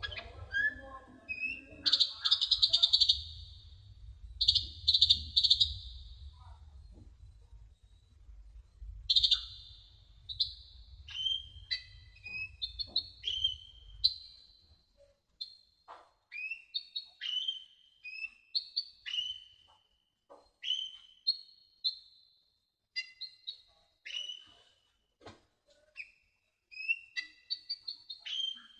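Sunbird (the 'kolibri ninja' of Indonesian bird-keepers) singing: two buzzy trilled bursts, then a long series of short, high whistled chirps, about two a second, many dropping in pitch. A low hum runs underneath until about halfway.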